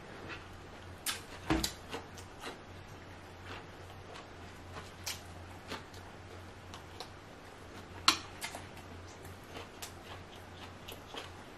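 Close-miked chewing of a person eating sausage: scattered wet mouth clicks, with a louder click about eight seconds in, over a low steady hum.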